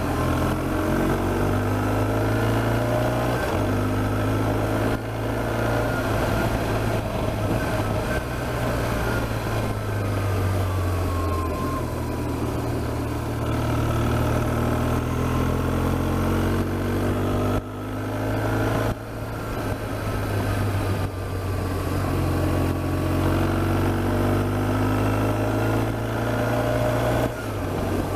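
BMW R1200GS Adventure's flat-twin engine under way, its pitch climbing again and again as it pulls through the gears, with short breaks at the gear changes, over a steady rush of wind.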